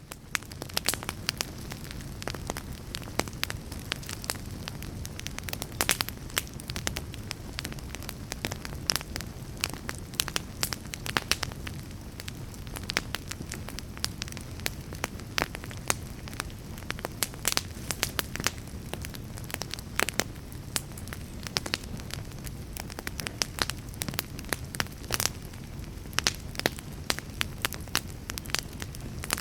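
Fire crackling: a steady low rumble of burning with frequent, irregular sharp pops and snaps.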